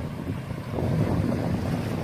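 Wind buffeting the microphone: a low, unsteady rumble.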